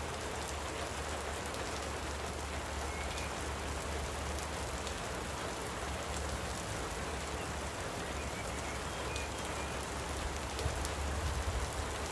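Light rain falling, a steady even hiss with a low rumble underneath.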